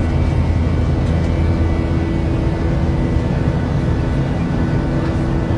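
Airliner cabin noise aboard an Airbus A380 after take-off: a steady, loud jet-engine and airflow rumble with a faint steady whine above it.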